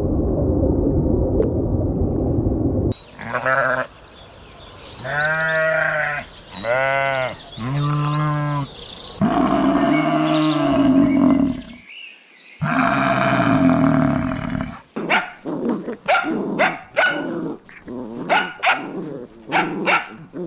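Farm animals calling in turn: a low steady rumble for about three seconds, then bleating, with three short arched bleats followed by two longer ones. Near the end comes a quick run of short, sharp animal calls.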